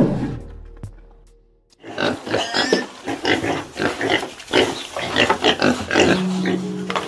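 A herd of pigs grunting, many short overlapping grunts coming two or three a second. It is preceded at the very start by a brief brown bear call that dies away into a second of quiet.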